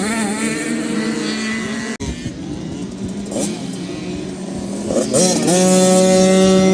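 Motocross bike engines revving, the pitch rising and falling, with an abrupt break about two seconds in. Near the end one engine revs up and holds a steady high pitch.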